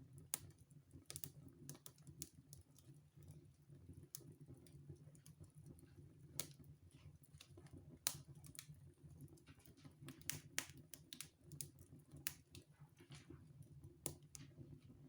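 Wood fire burning in a fireplace, crackling with irregular sharp pops and snaps over a faint low hum.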